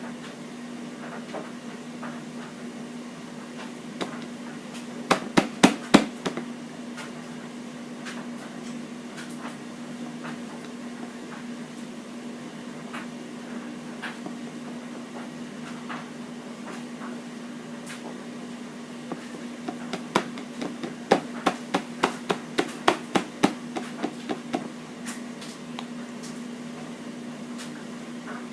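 Hard, sharp taps, about six in quick succession around five seconds in, then a longer run of about fifteen at roughly three a second later on, over a steady low hum.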